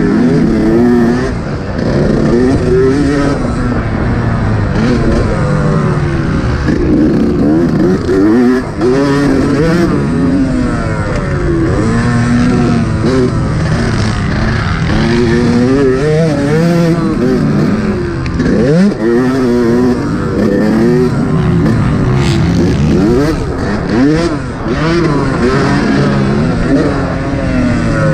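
Two-stroke motocross engine of a Yamaha YZ125 revving up and down over and over as it is ridden around the track, with steady wind and riding noise underneath.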